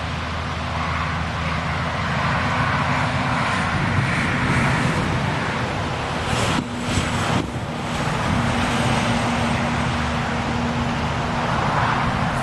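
A steady engine hum under rushing wind noise on the microphone.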